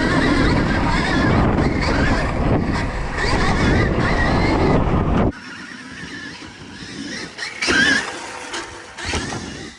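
Dirt bike being ridden hard: motor whine wavering in pitch under a loud rush of noise, which cuts off suddenly about five seconds in, leaving quieter, uneven sounds with one short louder burst near the end.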